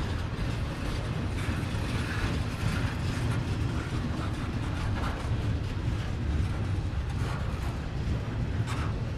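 Double-stack intermodal container cars rolling past: a steady low rumble of steel wheels on rail, with scattered clicks and squeaks from the passing cars.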